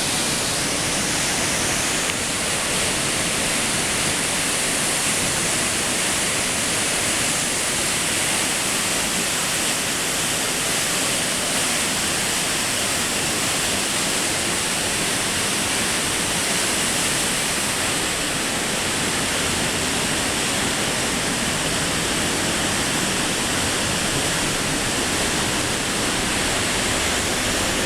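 Varone waterfall heard from inside its lower grotto: a steady, loud, unbroken rush of falling water, heaviest in the high hiss.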